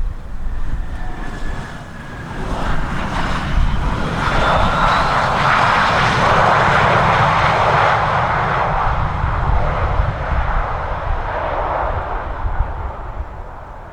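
Airliner on landing approach passing the microphone: its engine noise swells to a peak about halfway through and then slowly fades, with a faint engine whine in it. Strong gusty wind rumbles on the microphone underneath.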